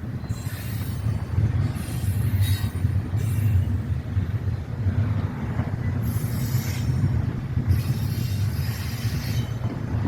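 Freight train rolling past: a steady low rumble of cars on the rails, with higher-pitched wheel noise coming and going several times.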